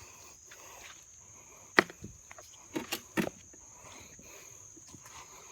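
A few footsteps and scattered sharp knocks and crunches, the loudest a sharp click about two seconds in, over a steady high-pitched drone of insects.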